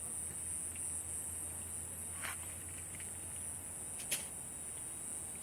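Steady high-pitched chorus of crickets or similar night insects, with a couple of brief sharp crackles from the campfire about two and four seconds in.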